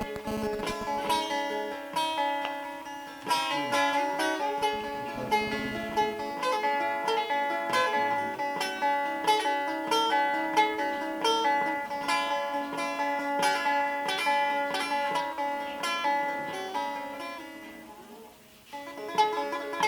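Solo bağlama (Turkish long-necked lute) improvisation: quick runs of plucked notes with repeated strums. The playing dies away about eighteen seconds in, then starts again with a new strum near the end.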